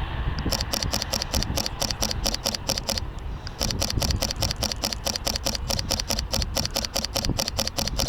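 Fujifilm X-T3 shutter firing in rapid continuous bursts: a fast even run of clicks that pauses for about half a second near the middle, over a low rumble.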